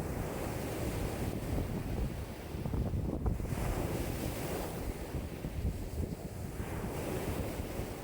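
High waves on a lake washing in a strong wind of about 5 m/s, a steady rushing and splashing that swells and eases every few seconds, with wind buffeting the microphone.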